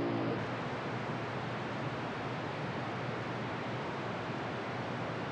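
Steady hiss of CB radio static between transmissions, with no voice on the channel.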